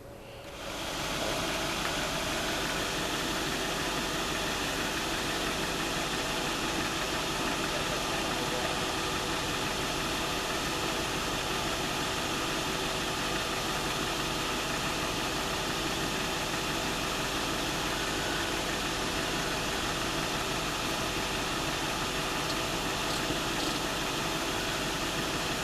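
Car engine idling steadily under a strong, even hiss, coming in about half a second in and holding unchanged.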